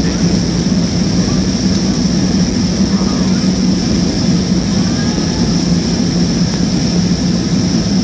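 Steady cabin noise inside a Boeing 737-300 jetliner: its CFM56 jet engines droning with a constant low hum and airflow hiss, unchanging throughout.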